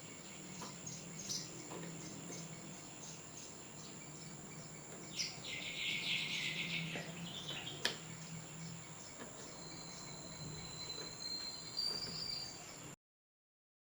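Outdoor ambience: a steady high insect trill with bird chirps and calls, a brief burst of chirping in the middle and a single sharp click. The sound cuts off just before the end.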